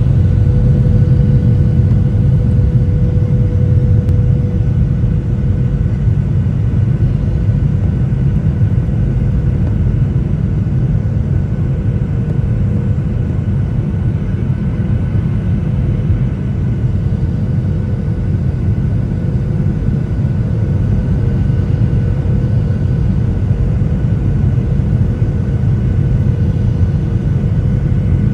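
Airplane engines and airflow during the approach to landing: a steady low rumble with a faint, steady humming tone over it.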